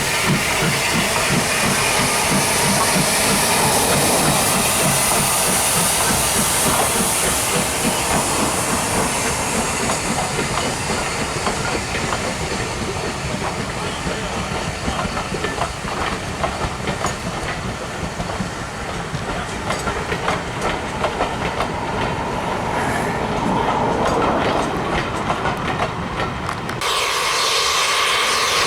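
Steam-hauled train running past: steam hiss and rhythmic exhaust beats at first, then the clatter of carriage wheels over the rail joints. Near the end it cuts abruptly to a different steady sound.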